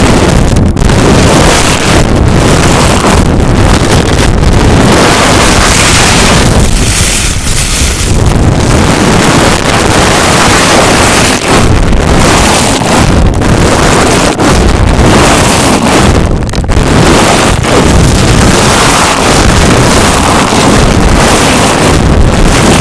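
Loud, continuous rough friction noise rubbed directly on the microphone, an ASMR brushing or scratching trigger, with brief dips now and then.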